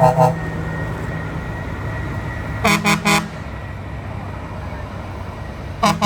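Truck air horns sounding in short toots: a brief blast at the start, three quick blasts about three seconds in, and more beginning near the end, over a steady low rumble of running trucks.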